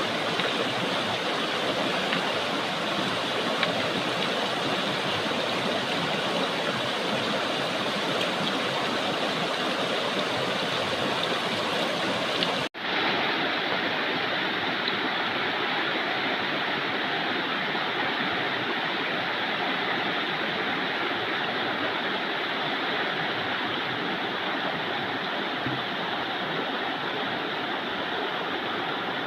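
Steady rush of flowing water. It breaks off for an instant a little before halfway, and afterwards sounds duller, with less hiss.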